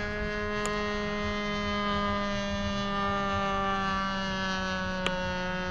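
Carburetted engine of an RC model Cessna 182 running steadily in flight, a constant drone whose pitch sags slightly in the second half.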